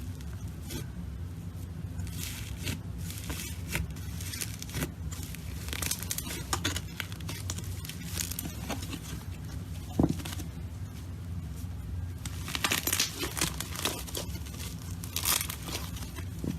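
Slime being squeezed and stretched by hand, giving a run of small sticky crackles and pops, with one sharper pop about ten seconds in and thicker crackling near the end. A steady low hum sits underneath.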